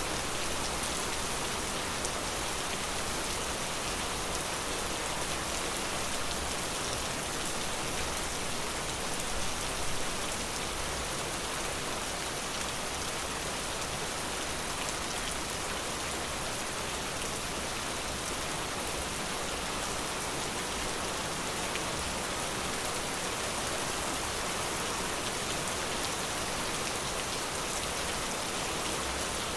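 Steady forest rain: a dense, even hiss of rainfall with fine individual drops ticking through it, briefly a little louder about ten seconds in.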